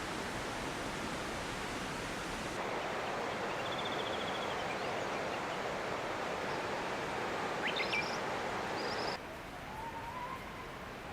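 Mountain stream rushing steadily, its level shifting abruptly twice and dropping quieter near the end. A few short high bird chirps and trills come in around the middle.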